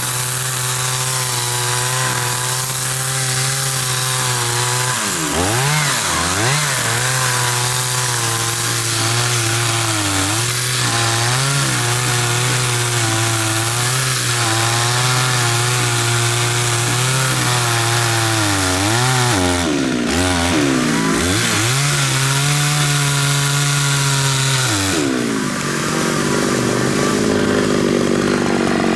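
Two-stroke chainsaw running at high revs while cutting into a khaya (African mahogany) trunk. The engine note dips sharply and recovers several times as the chain loads up in the wood, then falls to a lower speed near the end.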